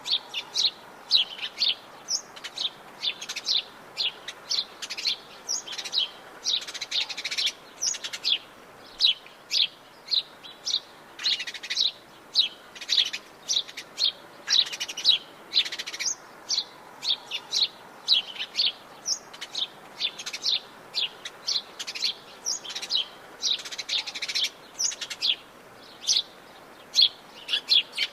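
Many birds chirping and calling in dense Atlantic Forest, short quick notes one after another throughout over a faint background hiss.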